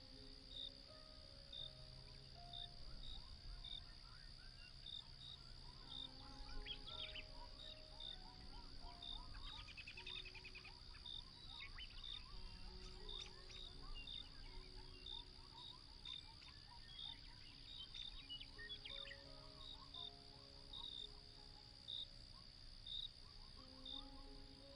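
Quiet night ambience of crickets: a steady high trill with regularly repeated chirps above it. A slow, soft melody of long held notes runs underneath, with a few faint bird-like calls.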